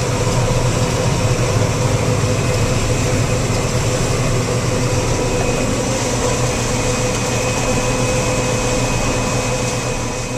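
Vehicle engine running at a steady speed, a low drone with a faint steady whine over it.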